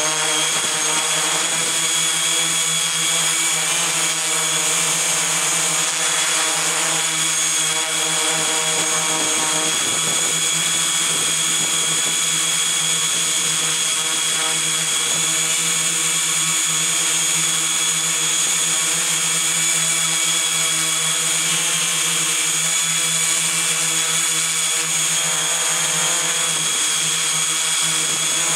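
Multirotor drone's brushless motors and propellers running steadily, a constant high whine over a hiss.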